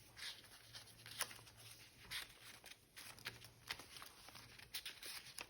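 Faint rustling and a few soft ticks of paper pages, tags and card being handled and turned in a handmade junk journal.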